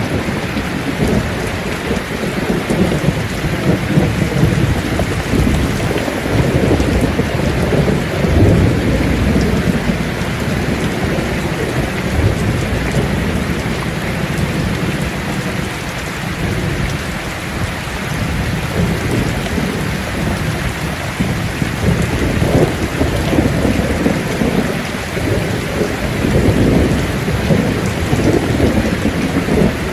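Steady heavy rain falling on leaves, an even hiss of many drops, with a low rumble underneath that swells and eases every few seconds.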